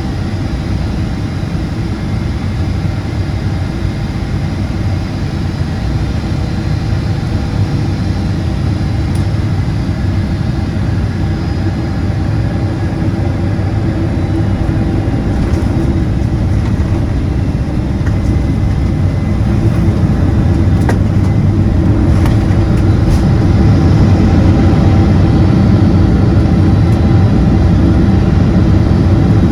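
Boeing 777-200ER's GE90 turbofan engines and airflow heard from inside the cabin as a steady deep rumble with a faint whine above it, growing gradually louder.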